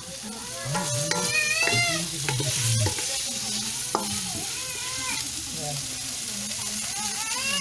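Pork and onions sizzling in a hot wok while a spatula stirs and scrapes through them, with a sharp tap on the pan about four seconds in. A high, wavering voice-like call sounds in the background during the first few seconds.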